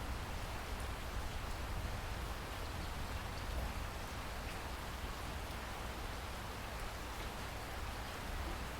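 Steady rain falling: an even hiss of raindrops with a low rumble underneath.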